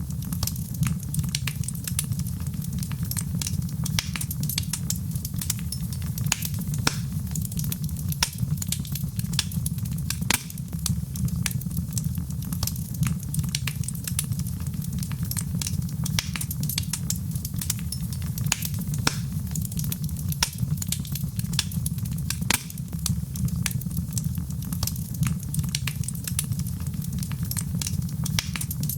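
Wood fire burning in a fireplace: a steady low rumble of the flames with frequent irregular crackles and snaps from the burning wood.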